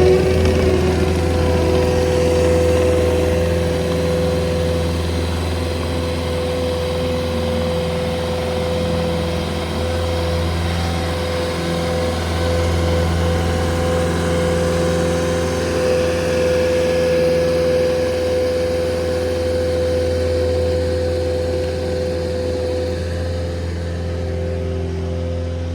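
Steady machine drone: a constant mid-pitched tone over a low hum, holding level throughout.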